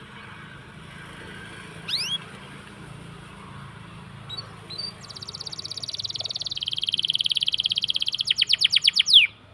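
Songbird singing: a rising whistled note, a few short chirps, then a long fast trill of rapidly repeated notes that grows louder and opens into separate loud notes, ending on a falling whistle.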